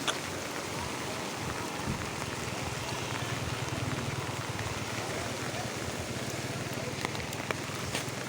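Steady rushing noise of water, an even hiss with a low churning undertone and a few faint ticks.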